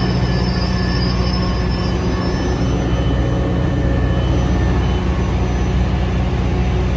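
Caltrain train with its F40PH diesel locomotive running close by: a steady, loud low engine drone. Thin high wheel squeal fades out about three seconds in.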